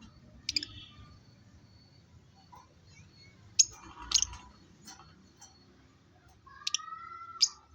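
Lovebirds giving short, sharp, high-pitched chirps, about six of them scattered a second or so apart, with a longer drawn-out call near the end.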